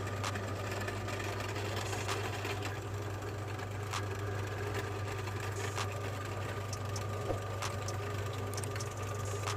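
Electric meat grinder motor running with a steady hum, with sharp cracks every couple of seconds as crunchy almond cookies are crushed in it.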